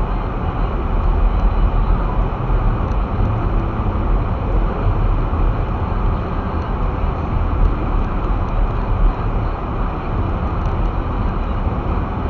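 Steady low rumble of an all-wheel-drive car driving along a snow-covered street, heard from inside the cabin: road and tyre noise with the engine underneath.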